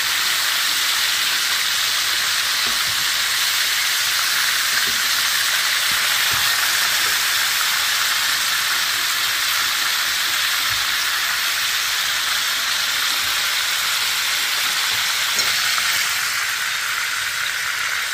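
Unbreaded pork chops shallow-frying in hot oil in a skillet: a steady, loud sizzle, with a few faint knocks from metal tongs.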